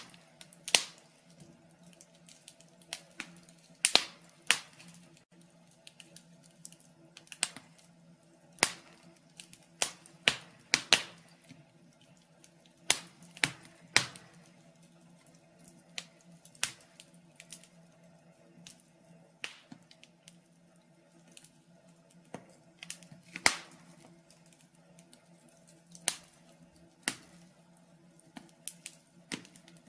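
Wood fire in a fireplace crackling, with irregular sharp pops and snaps every second or so over a faint steady hum.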